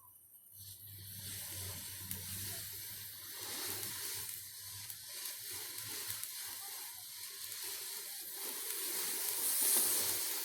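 A firework hissing steadily as it burns and throws sparks, starting about half a second in and growing louder toward the end.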